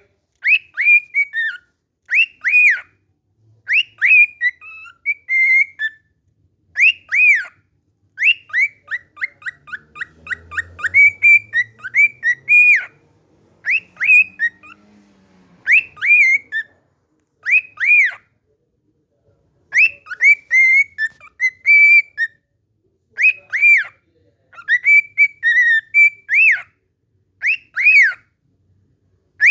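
Cockatiel whistling its song, repeating the same short tune over and over in phrases of arching whistled notes with short pauses between. Partway through, a quick run of short notes leads into the phrase.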